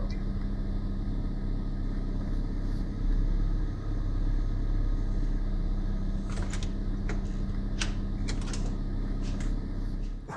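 Car engine idling steadily, heard from inside the cabin as a low even hum, with a few faint clicks about two-thirds of the way in.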